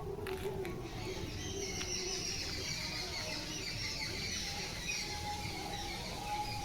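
Birds twittering: a dense run of rapid, overlapping high chirps that starts about a second in and keeps going.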